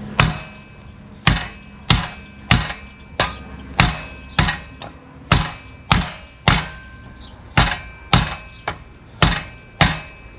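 Bowie knife with a 52100 steel edge chopping through a 2x4 that has a knot in it: about fifteen sharp chops, one every half second or so.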